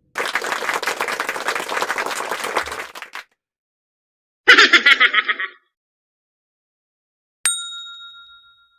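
A string of separate sound effects: about three seconds of dense crackling, clapping-like noise, then a short, loud, rapid rattling burst, then a single bright bell-like ding that rings out and fades over about a second.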